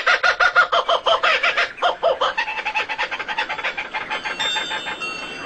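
A bird giving a rapid, even chattering call of about eight notes a second, fading away over the last two seconds.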